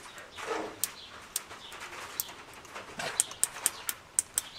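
Sharp, light metallic clicks from a screwdriver opening and closing a distributor's breaker points, scattered at first and coming quickly, several a second, near the end.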